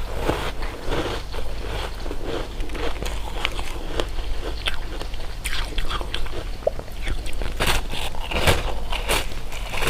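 Close-miked eating sounds: biting and chewing candy with many small crackles, and a few sharp, loud crunches in the second half.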